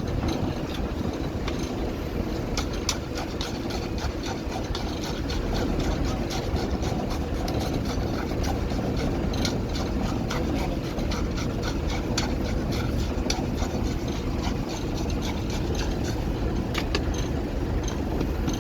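An engine running steadily, with many short clicks and knocks over it.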